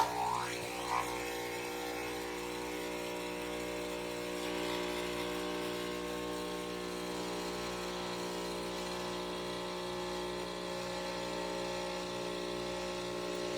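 Nespresso OriginalLine espresso machine's pump running steadily while it brews a lungo, a constant electric hum with a fine rapid pulsing underneath.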